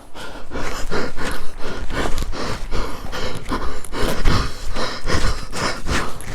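A person breathing hard and panting while moving fast, with quick, rhythmic footsteps on rough ground.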